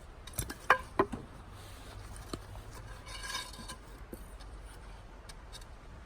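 Metal cookware or utensils clinking and knocking. There are a few sharp knocks about a second in, one with a brief metallic ring, a ringing clink near the middle, and a few light clicks after it.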